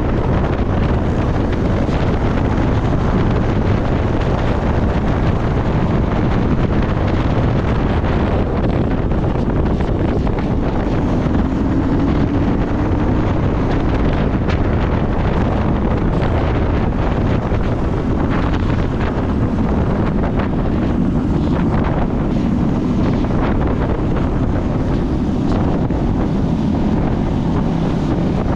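Wind rushing over the microphone of a motorcycle riding at speed, with a low engine drone underneath that rises and falls slightly a couple of times.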